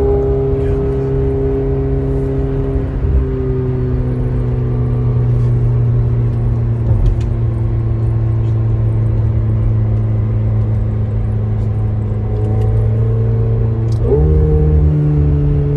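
McLaren twin-turbo V8 heard from inside the cabin, running at a steady, even drone with its pitch slowly easing down. About fourteen seconds in, the revs jump up quickly and hold at the higher note.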